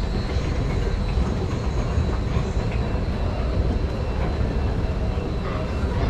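Steady low rumble of a train running.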